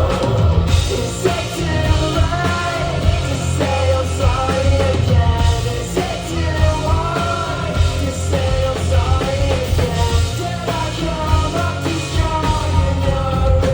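Live rock band playing loud, with sung vocals that lean toward screaming over heavy bass and drums.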